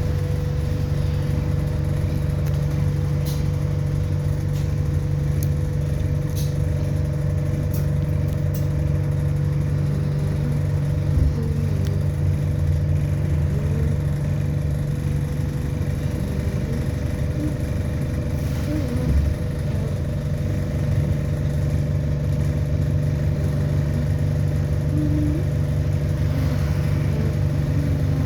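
Inside an ADL Enviro400 Hybrid double-decker bus: a steady low drone from the engine and drivetrain with a constant hum above it, and a few light clicks and rattles in the first third.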